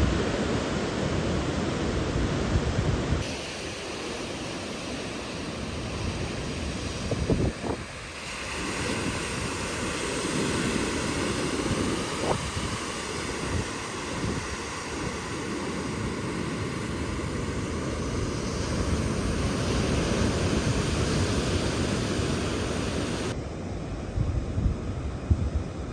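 Sea surf and wind buffeting the microphone, a steady rushing noise that changes abruptly twice as the shots change.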